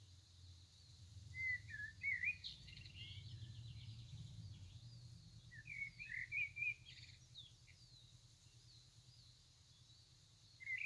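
Small birds chirping in two spells of quick, high twittering notes, about a second in and again around six seconds, over a faint steady low hum.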